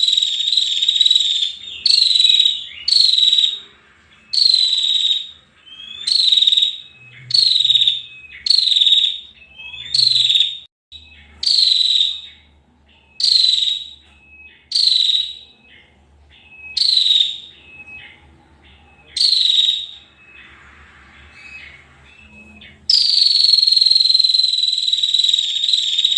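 Female prenjak (prinia) calling: a fast, buzzy, high trill. A long unbroken trill opens, then short bursts of it come about once a second, and after a pause of about three seconds a long trill runs again near the end.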